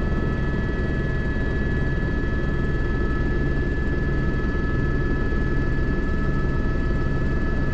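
Airbus H125 (AS350 B3) helicopter in flight, heard from the cockpit: steady rotor and turboshaft engine noise with two constant high tones on top.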